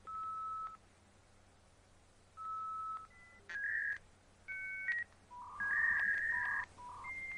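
A string of electronic beeps, like phone-keypad tones, at several different pitches, each held for about half a second with short gaps between. Near the end a long steady high tone begins.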